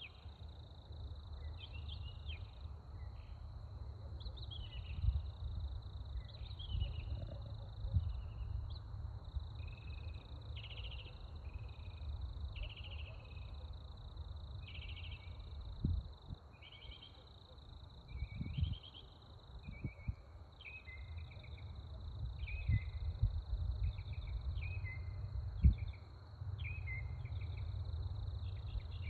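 Night ambience: a steady high-pitched insect trill with short chirping calls repeating every second or two. Underneath is a low rumble with a few thumps.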